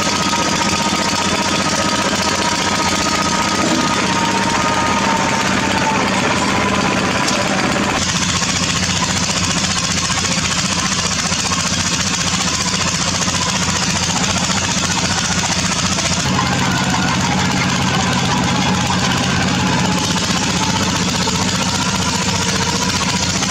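Heavy diesel construction machinery running loudly and steadily at a bored-pile drilling site. The sound changes about 8 seconds in, and again between about 16 and 20 seconds, as the machine's work shifts.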